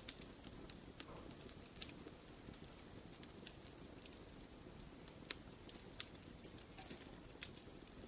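Wood fire burning in a fireplace: irregular sharp crackles and pops over a low, steady hiss, with the loudest pop about two seconds in.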